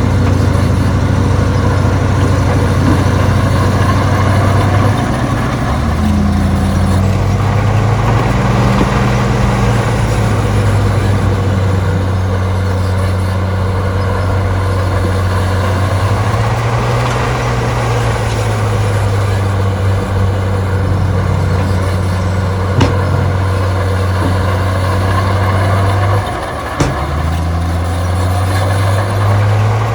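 Heavy diesel engine of an earthmoving machine running under load, a steady low drone whose pitch steps up and down a few times as the load changes, with a brief dip and two sharp clicks in the later part.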